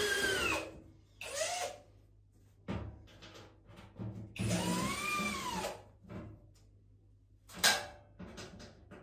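Clicks and knocks of hand-tool work on a washing machine, with three drawn-out high squeals that rise and then fall in pitch and a sharp knock near the end.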